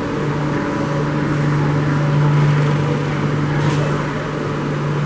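Train at the station running with a steady low hum over a broad rumble, with a brief click about three and a half seconds in.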